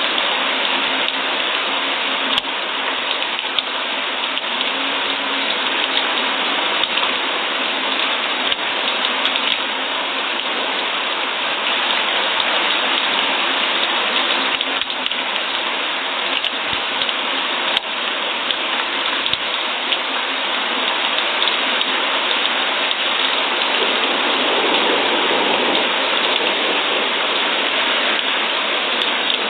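Steady rain falling, an even hiss of many drops with a few sharper drop ticks now and then.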